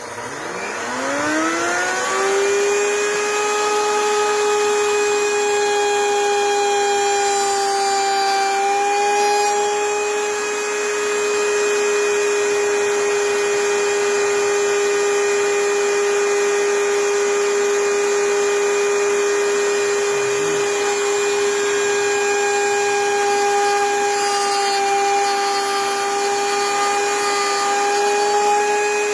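A workshop power tool's electric motor starting up: its whine rises in pitch over about two seconds, then it runs at a steady speed with a constant hum.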